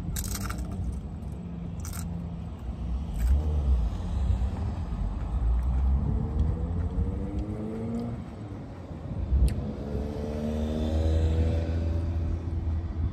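Crunching bites of tortilla chips and chewing, with three sharp crunches in the first few seconds, over a steady low car rumble. Twice, about six and ten seconds in, a vehicle engine's note rises in pitch.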